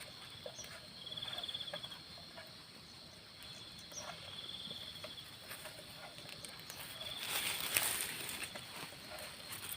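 An insect, cricket-like, trilling in short pulsed bursts of about a second each, repeating roughly every three seconds. A brief, louder burst of noise comes about three-quarters of the way in.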